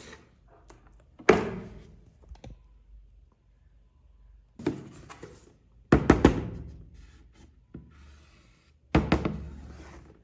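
Hard thunks and knocks of plastic toy parts and packaging being handled and set down. There are four main strikes several seconds apart, and the third is a quick cluster of three knocks.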